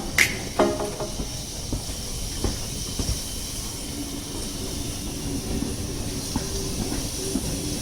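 Steam-hauled passenger train in motion: a steady running rumble with a hiss of steam and scattered clicks from the wheels on the track.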